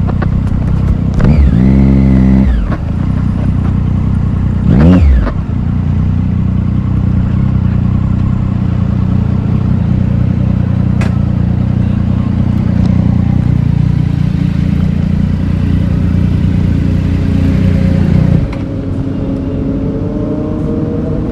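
Triumph Daytona 675R's 675 cc inline-triple engine revved twice: a longer rev about a second in and a short sharp blip about five seconds in. It then settles into a steady idle, which drops away abruptly near the end, leaving a quieter engine sound.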